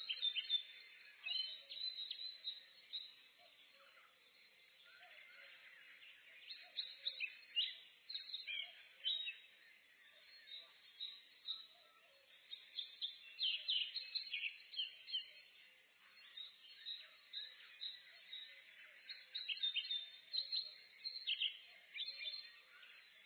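Several songbirds singing and chirping in a forest at dawn, short high chirps and trills coming in clusters every few seconds over a faint steady background hiss.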